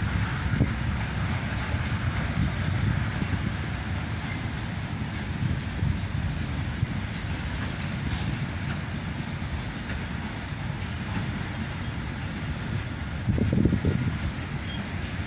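Train hauled by two G12 diesel locomotives rolling past with a steady low rumble, swelling louder briefly near the end.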